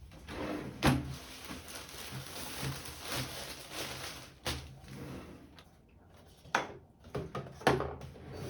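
Household handling sounds: a few sharp knocks and clatters over a soft rustling, with the loudest knocks about a second in and in a cluster near the end.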